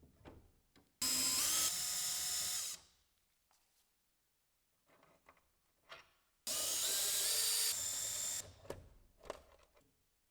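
Electric drill run in two bursts of about two seconds each, its whine stepping up in pitch as it spins up, with small clicks and knocks of handling between the bursts.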